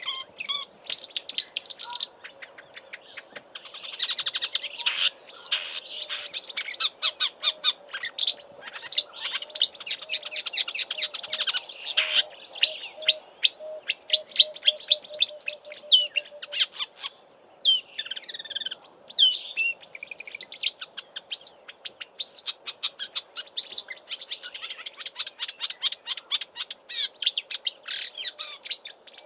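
Marsh warbler singing a long, fast, varied song of rapid chattering and whistled phrases, packed with mimicry of Southern African bird calls.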